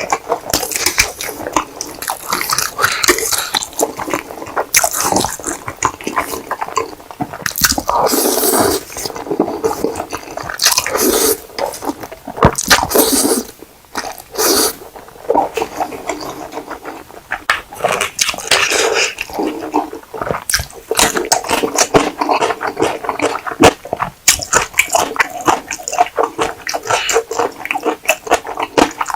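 Close-miked eating sounds: wet slurping and chewing of spicy ramen noodles with cheese, in irregular smacks and clicks.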